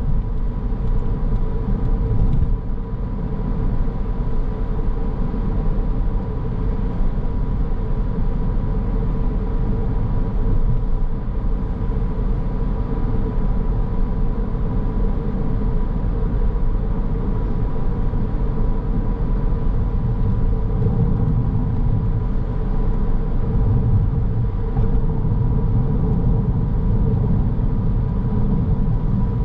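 Car driving along: steady low road and engine rumble, with a thin steady whine held throughout.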